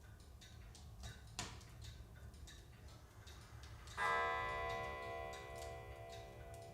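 Larch logs crackling in a wood stove, with scattered sharp pops and a louder one about a second and a half in. About four seconds in, a piano chord from background music sounds and rings on, fading slowly.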